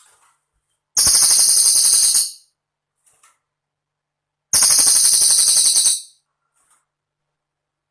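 Cililin bird song on a looped masteran (training) track: two high, rapid, jingling trills of about a second and a half each, about three and a half seconds apart, with silence between.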